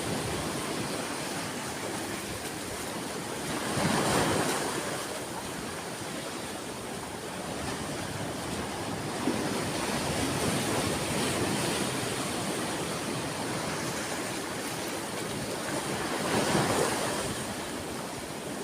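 Ocean surf: a steady wash of waves, with a wave breaking louder about four seconds in and another near the end.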